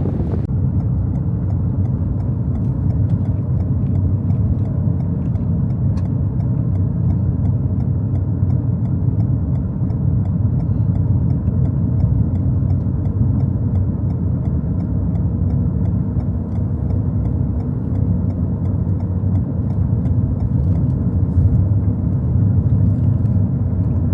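A car driving, heard from inside the cabin: a steady, even low rumble of road and engine noise.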